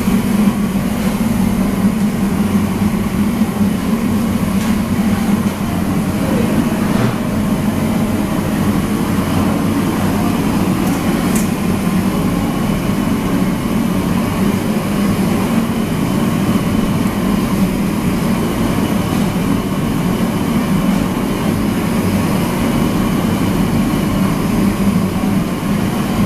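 Steady, loud mechanical drone of commercial kitchen equipment, strongest low down, running unchanged throughout.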